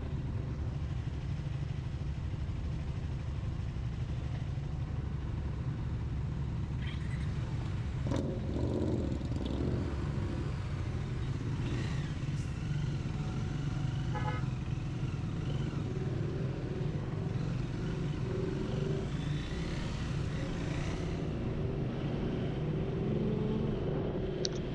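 Triumph Speed 400 single-cylinder engine running steadily while being ridden in traffic, with short horn-like toots about halfway through.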